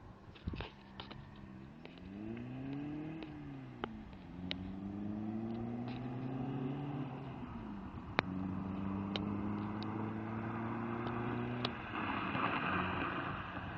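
Vectra diesel engine revving: a quick blip up and down about two seconds in, then the revs climb slowly, dip near the middle and climb again. The pitch gives way to a rougher rush of noise near the end. A few sharp clicks and ticks are heard along the way.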